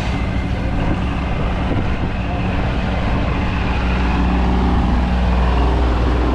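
An engine running steadily, a low drone that gets louder about four seconds in.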